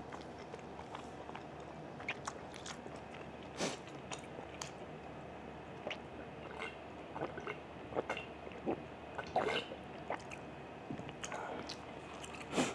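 Close-miked chewing and mouth sounds of a person eating a meal, with scattered small clicks and smacks; about halfway through he takes a drink from a glass.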